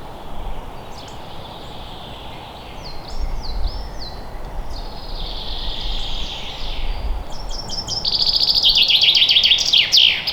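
Wild birds singing: a series of short hooked whistles in the first half, then a fast, loud trill of rapid notes near the end. Underneath runs a steady rushing background noise.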